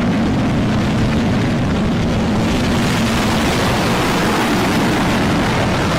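Rocket Lab Electron rocket's first stage, nine Rutherford engines, firing at liftoff: a loud, steady rushing noise with a low rumble.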